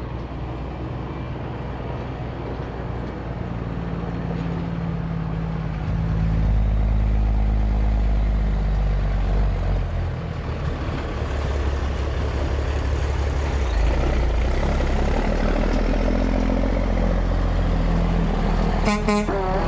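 Heavy truck engine running steadily, growing louder about six seconds in, with a brief clatter near the end.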